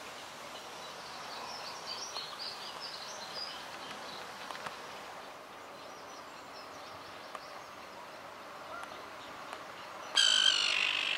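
Outdoor ambience with faint, scattered bird chirps in the first few seconds. About ten seconds in, a bird gives one loud call lasting about a second, the loudest sound here.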